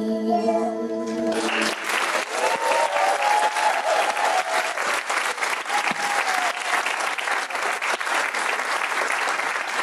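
A song's final held chord stops about a second and a half in, and an audience breaks into applause, with a few cheers near the start of the clapping.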